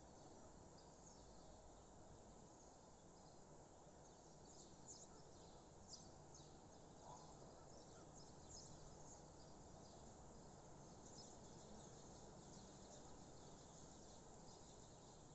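Faint birdsong at dawn: scattered short, high chirps from small birds over a low, steady background hiss.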